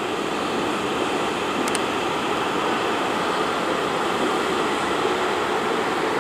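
Passenger train running past along the platform, a steady rushing noise of wheels and running gear.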